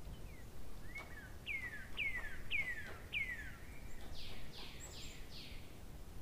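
A songbird singing: about five clear whistled notes in quick succession, each sliding downward, then four rougher, harsher notes, over a low steady background noise.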